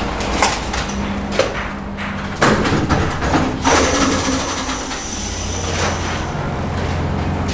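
Work noise: a few sharp knocks and scraping in the first half, over a steady low mechanical hum that grows steadier in the second half.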